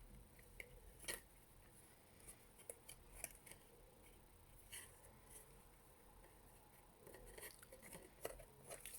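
Faint rustling and a few small clicks of string and thin card being handled while string is threaded through punched holes and tied, with a short run of them near the end.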